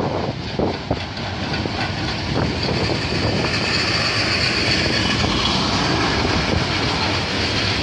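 Freight train of steel-coil wagons rolling past, its wheels clacking over rail joints, settling into a steady rolling rumble with a high hiss about three seconds in.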